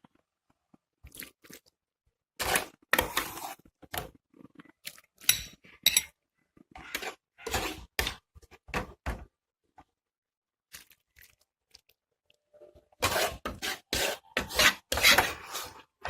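A serving utensil scraping and clinking against a cooking pan as the cooked chicken is scooped out into a serving dish, in two bursts of irregular strokes with a short pause between.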